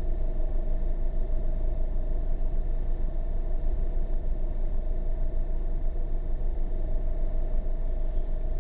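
Steady low engine rumble at idle, with a faint steady hum above it.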